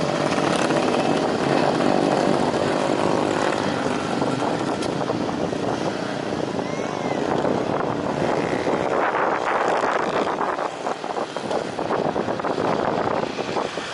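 Aircraft engines running loud: a steady drone with a dense rush, which turns rougher and more crackling in the second half.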